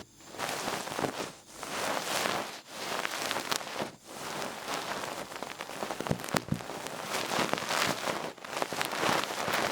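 Feather-tufted ear pick brushing and rubbing in an ear close to the microphone: a scratchy rustle that swells and fades about once every second or so, with brief lulls between strokes.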